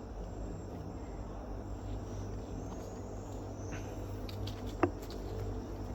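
Insects calling steadily over a low background rumble, with one short sharp sound about five seconds in.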